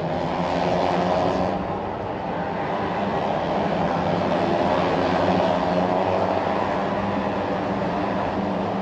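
Racing motorcycle engines running in a steady drone on the race broadcast's track sound.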